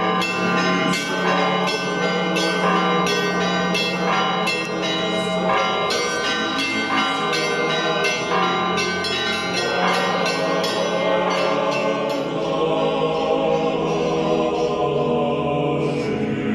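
Church bells ringing in a quick run of repeated strikes, each leaving a long ringing tone. About halfway through the strikes thin out into a sustained, blended ringing.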